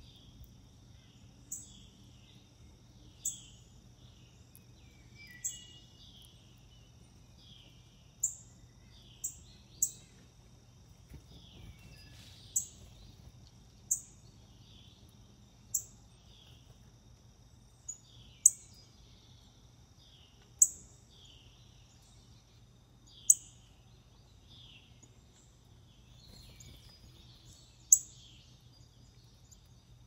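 Songbirds calling: a loud, sharp, high chip note repeated every one to three seconds, over fainter down-slurred whistled notes repeated about once a second and a faint steady high drone.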